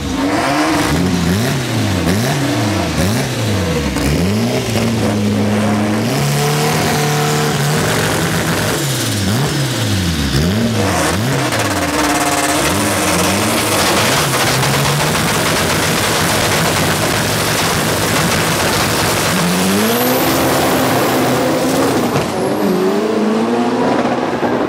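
Two Volkswagen Beetles with swapped VW AP four-cylinder engines revving up and down again and again at the drag-strip start line, then holding steady revs. About twenty seconds in they launch at full throttle, the engine pitch climbing in steps as they shift through the gears.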